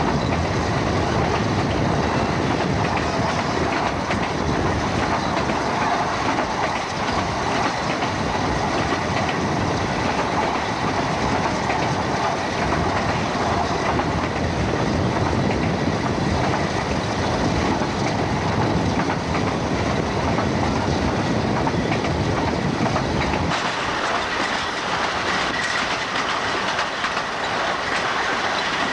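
Narrow-gauge Ffestiniog Railway carriage running along the line at speed, heard from the carriage window: a steady running noise of wheels on rail. The low part of the noise drops away about 23 seconds in, and a faint high wheel squeal comes in near the end.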